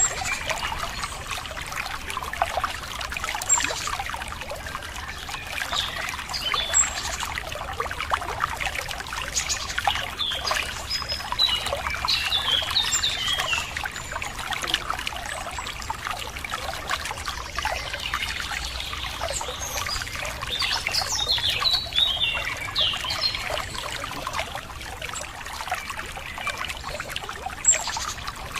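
Running water trickling steadily, with birds chirping in two spells of quick, high notes, one about a third of the way in and one about two-thirds of the way in.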